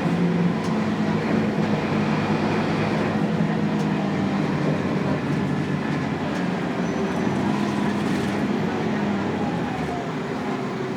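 Scania K280UB bus running on the road, its 9-litre inline five-cylinder turbo diesel giving a steady hum over road and body noise that eases slightly toward the end.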